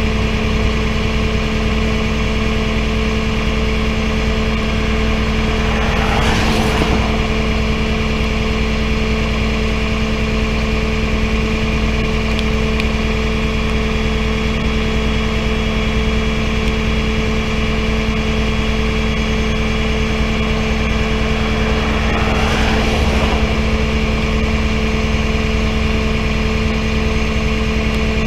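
Tow truck engine idling steadily, with two brief whooshing swells about six seconds in and near the end.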